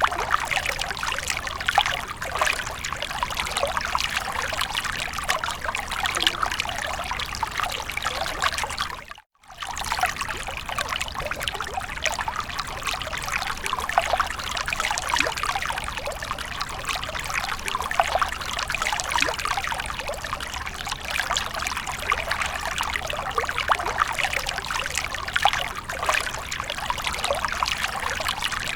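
Water from a fountain splashing and trickling steadily. It cuts out completely for about half a second roughly a third of the way through, then resumes.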